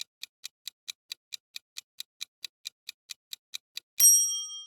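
Quiz countdown timer sound effect: a clock ticking quickly, about four to five ticks a second. After about four seconds it ends in a single bright ding that rings out briefly.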